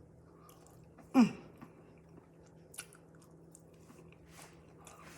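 A person chewing a mouthful of home-cooked breakfast, with soft mouth clicks. Just over a second in there is one short vocal sound that falls in pitch.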